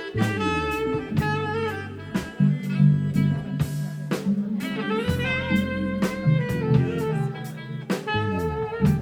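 A live band playing a jazzy jam: drum kit with regular cymbal strokes, a walking bass line, and a melodic lead line carrying a solo.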